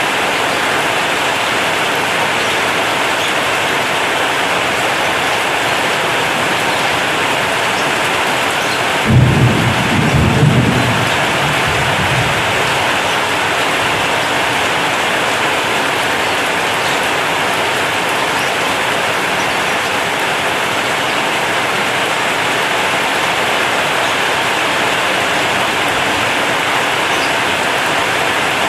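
Heavy rain falling on a corrugated zinc roof, a steady dense hiss, with a sudden low rumble of thunder about nine seconds in that fades away over about three seconds.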